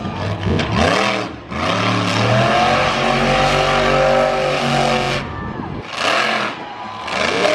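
Monster truck engine revving in surges: a few quick rises and falls, then a long held high rev for about three and a half seconds, a short drop, and another rev near the end.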